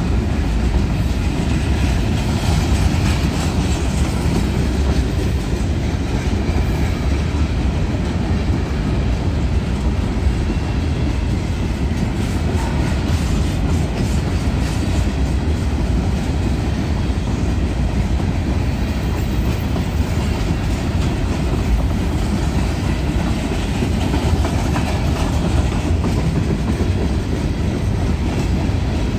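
Empty covered hopper cars of a freight train rolling past close by: a steady rumble of wheels on rail with clickety-clack over the rail joints.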